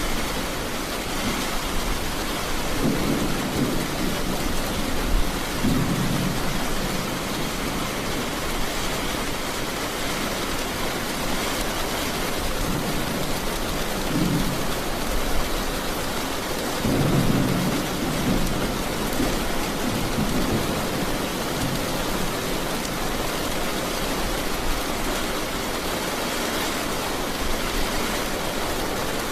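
Steady heavy rain with several low rumbles of thunder, the strongest about two-thirds of the way through.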